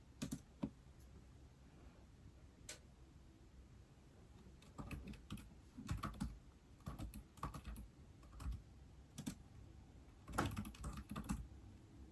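Typing on an iPad keyboard: a few scattered key clicks, then short runs of quick, irregular typing in the second half.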